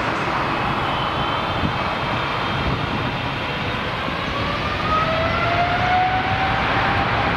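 Jet airliner engines running, with a whine that rises slowly in pitch over the second half, against a dense rush of noise.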